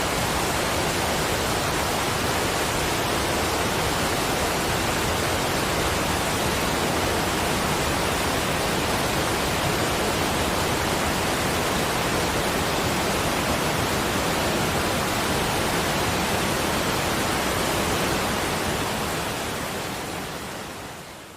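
Steady, even rushing hiss of a relaxation sleep-sound track, with no chimes or separate drops heard, fading out over the last three seconds.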